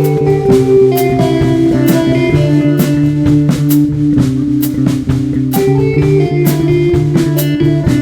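A live band playing: sustained guitar notes over a drum kit keeping a steady beat with cymbal hits.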